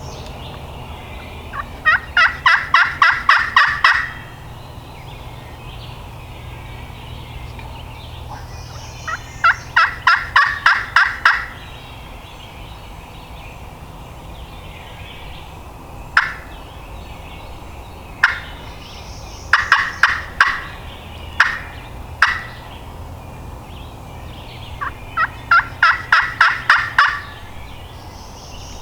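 Turkey yelping: four runs of about four to ten evenly spaced notes, roughly four a second, with single clucks between the runs.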